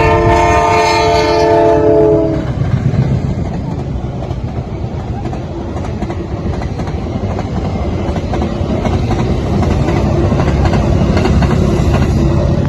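Train horn blowing once for about two and a half seconds, several pitches sounding together, then the steady rumble and wheel clatter of a passing train on the rails, slowly growing louder toward the end.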